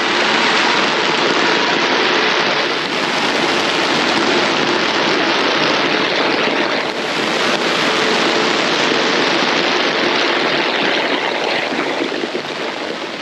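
Heavy rain pouring down in a steady, loud hiss that eases slightly near the end.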